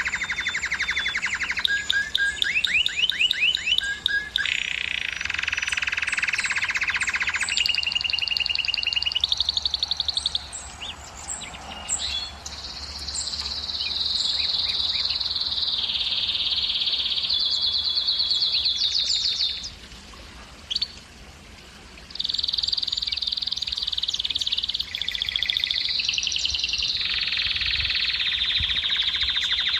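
Male domestic canary singing a long song of rapid rolling trills, each phrase repeated for a second or two and then switching to a new one, with a short break about two-thirds of the way through. This is the male's breeding song, used to stimulate hens to mate.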